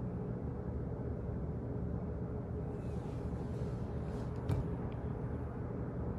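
Steady low office background noise, a rumble with a faint hum, with one sharp click about four and a half seconds in and a fainter one just after.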